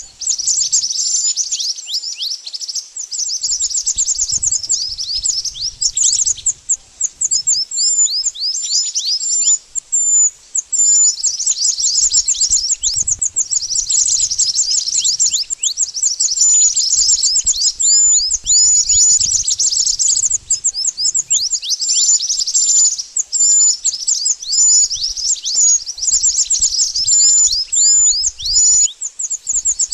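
Burung mantenan song: fast trains of high, downward-sliding chirps mixed with short whistled notes, running almost without a break with only brief pauses.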